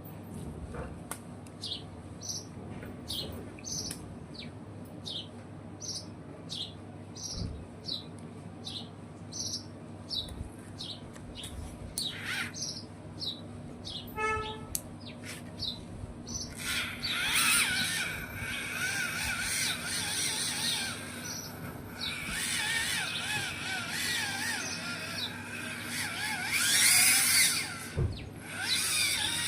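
Birds chirping: one bird repeats a short high chirp roughly twice a second, then from about halfway a dense chorus of many birds chirping together joins in and grows louder.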